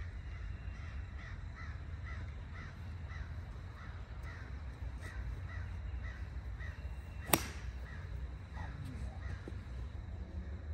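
A bird calls over and over, about twice a second, for most of the first six seconds. About seven seconds in comes a single sharp crack of a golf club striking a ball.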